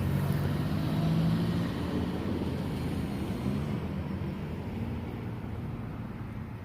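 A road vehicle's engine going by, a low hum that is loudest about a second in and then slowly fades away.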